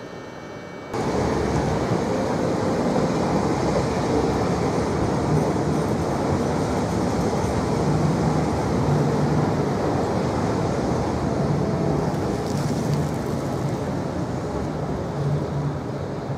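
A train moving through the station: a loud, steady rumble of wheels on rails that starts abruptly about a second in.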